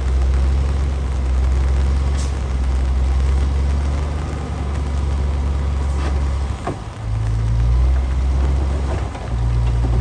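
Heavy diesel engine of earthmoving machinery running steadily with a deep low note. About seven seconds in the note dips briefly and then comes back slightly changed, with a few faint clacks.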